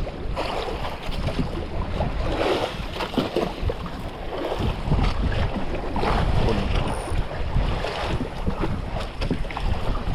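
Wind buffeting the microphone in uneven gusts, with choppy sea water splashing around a small boat.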